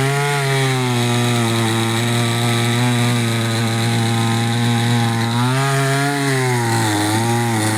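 Two-stroke chainsaw revving up and running at high speed while cutting wood, its engine pitch dipping briefly near the end.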